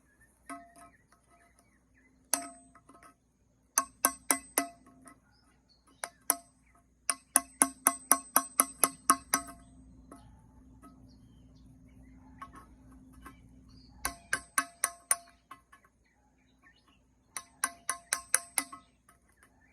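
Glaze being chipped off a ceramic kiln shelf: sharp strikes on the shelf, each ringing with a clear tone. They come in runs of several strikes a second, separated by pauses, with the longest run in the middle.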